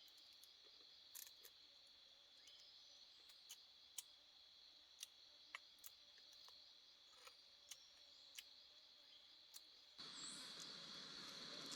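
Faint, steady high-pitched insect drone, with scattered small sharp clicks every second or so. Near the end the background suddenly becomes louder and fuller.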